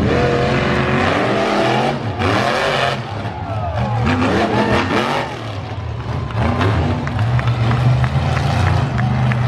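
Monster truck engine running loud, with its pitch bending up and down as it is revved.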